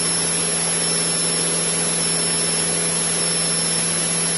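Cabin noise of a Cessna 152 in a climb: the four-cylinder Lycoming engine and propeller drone steadily at climb power, with a strong low hum and a broad hiss.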